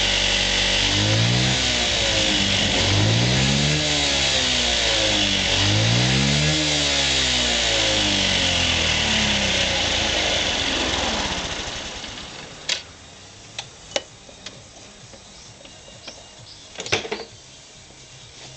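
Honda Giorcub scooter's AF54E engine running, revved up and back down three times, then switched off about twelve seconds in. A few sharp clicks and knocks follow.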